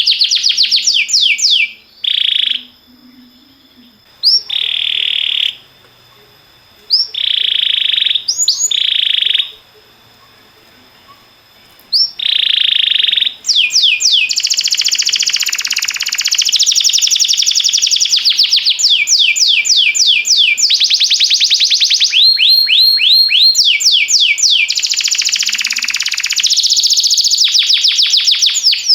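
Domestic canary singing: fast trills of repeated high notes. Short phrases with pauses between them in the first half give way to almost unbroken song from about halfway through.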